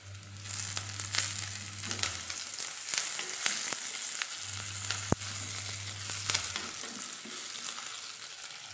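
Curry leaves, sliced shallots, crushed ginger and green chillies sizzling in hot coconut oil in an earthenware curry pot while being stirred with a silicone spatula, with many sharp crackles over a steady sizzle.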